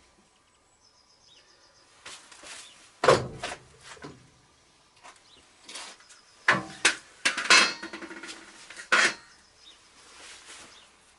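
Workshop clatter of metal being handled and set down: a sharp clank about three seconds in, then a run of clanks and knocks a few seconds later, with quiet in between.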